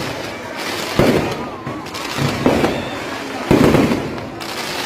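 Fireworks exploding overhead: three loud bangs, about a second in, about two and a half seconds in and about three and a half seconds in, each trailing off.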